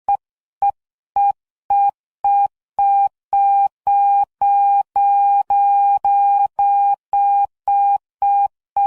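Electronic beep tone of one steady pitch, pulsing on and off about twice a second, like a telephone or alarm signal. The beeps lengthen until they nearly run together about halfway through, then shorten again. It opens a new wave instrumental track.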